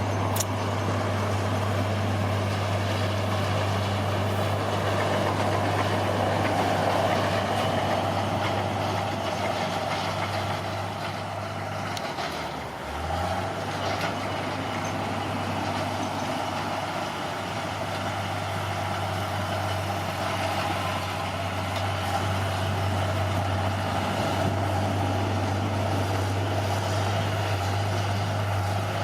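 Bulldozer's heavy diesel engine running steadily under work, with a brief drop in the engine note about twelve seconds in before it picks back up.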